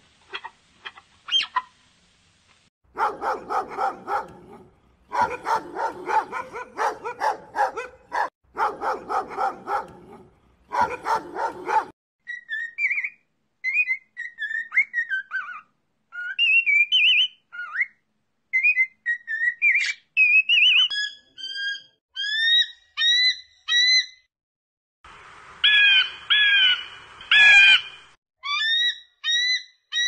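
A run of animal calls. For roughly the first twelve seconds, bursts of rapid, repeated calls. After that, a bird's chirps and short rising whistled notes, with a harsher burst of calls near the end.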